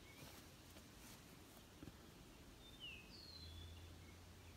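Near silence: quiet outdoor background with a few faint bird chirps about three seconds in, and a faint low hum coming in soon after.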